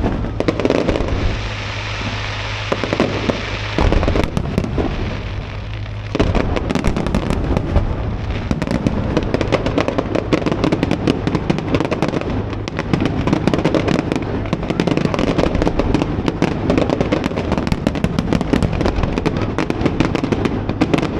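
Fireworks display going off: many rapid bangs and crackles, thickening into a dense, continuous crackle about six seconds in. Recorded on an action camera's built-in microphone.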